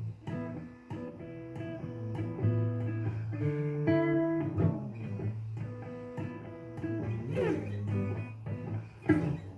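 Blues guitar playing an instrumental passage between sung verses, plucked notes over held low notes.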